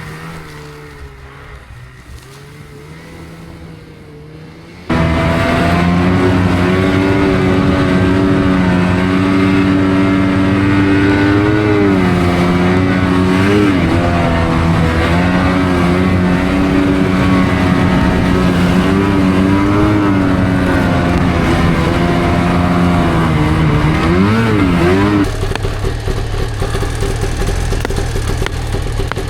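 Snowmobile engine running: faint for the first few seconds, then suddenly loud and close from about five seconds in, holding a mostly steady pitch with a few brief dips and surges, and easing off somewhat near the end.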